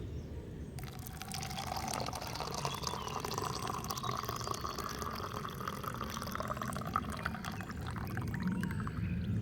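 Liquid being poured steadily into a container, its pitch rising as the vessel fills.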